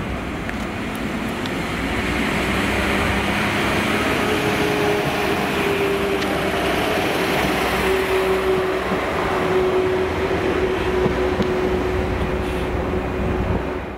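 Transport for Wales Class 231 Stadler FLIRT diesel multiple unit running slowly past on the nearest track: a steady rumble of wheels and engine that swells about two seconds in, joined by a steady hum from about four seconds in.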